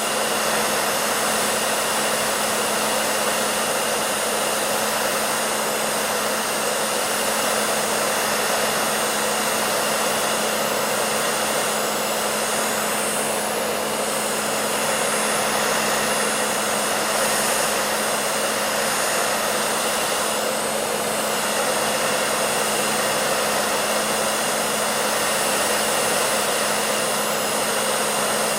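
Electric hair dryer running steadily: an even rush of blown air over a constant motor hum.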